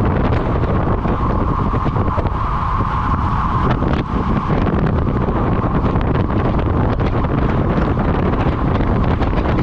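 Steady wind buffeting a camera microphone moving at cycling race speed, with a constant mid-pitched hum under the rush.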